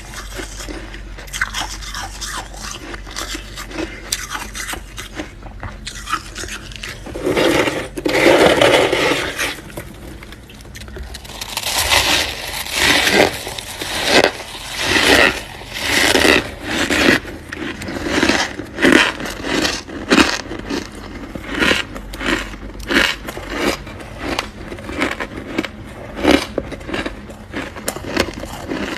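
Freezer frost scraped and crunched: soft scratching at first, a longer loud scrape about seven seconds in, then crisp crunches repeating about once a second through the rest.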